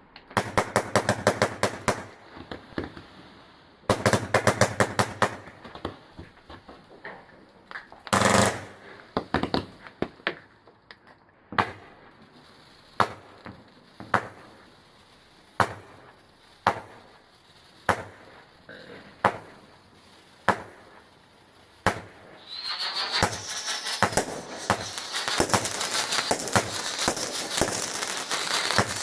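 Fireworks going off: two rapid volleys of sharp cracks, a heavier burst, then single bangs about one a second, and near the end a long stretch of dense crackling.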